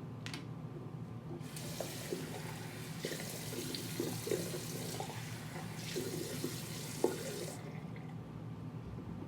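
A rush of running water, like a tap running, that starts about one and a half seconds in and stops sharply about six seconds later, with a few light knocks mixed in.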